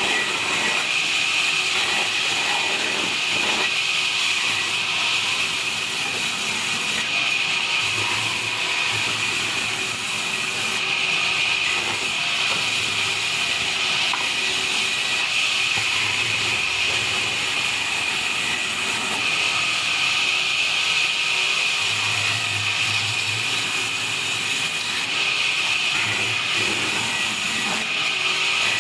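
Wood-cutting band saw running and sawing through small logs: a steady high whine over a continuous hiss.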